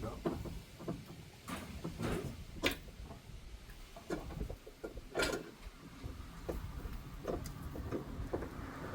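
Irregular light clicks and sharp metallic knocks of tools and suspension parts being handled while a new strut top bearing is fitted.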